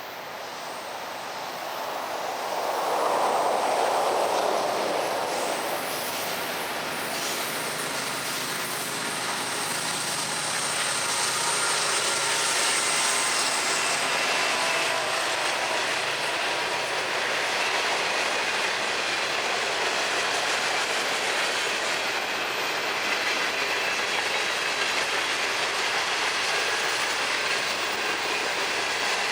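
Florida East Coast freight train rolling past: a steady rumble of freight cars with wheels clattering over the rail joints and a faint wheel squeal. It swells over the first few seconds and then holds steady.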